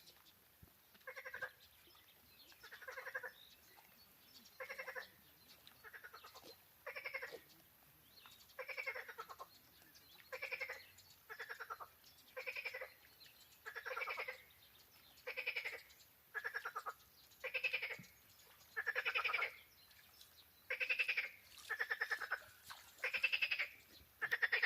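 A frog calling from the wetland: a pulsed, rasping croak repeated steadily about once a second, the calls growing louder toward the end.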